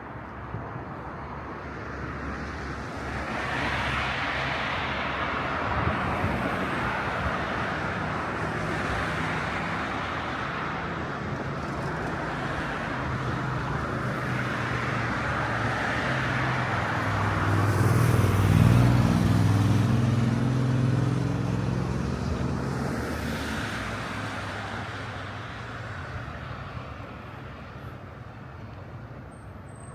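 Street traffic: a steady wash of tyre and engine noise as cars pass in waves. The loudest is one vehicle passing close about two-thirds of the way through, its engine hum swelling and then fading.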